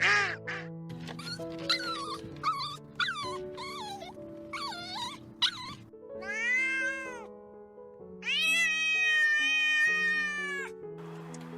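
A cat meowing: a string of short, wavering meows, then a longer arched one and a long drawn-out meow in the second half, over background music.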